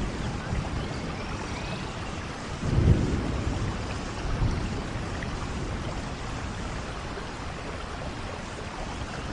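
Steady low rumble and hiss of a vehicle on the move, with a louder bump about three seconds in.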